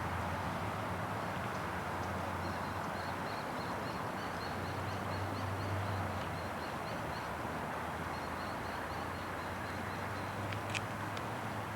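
Steady outdoor rushing noise with a low hum, and a bird chirping rapidly, about three or four short high chirps a second, through the middle few seconds. A few sharp clicks near the end.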